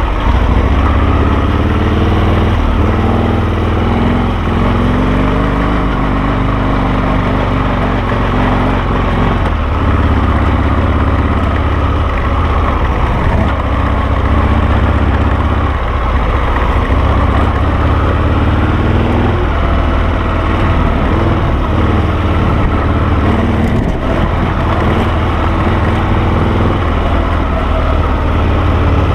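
Harley-Davidson Sportster air-cooled V-twin engine of a Carducci SC3 Adventure dual-sport motorcycle running under way, its revs rising and falling with the throttle.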